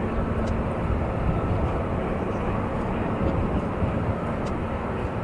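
Aircraft engine noise, a steady rumble with no clear rise or fall.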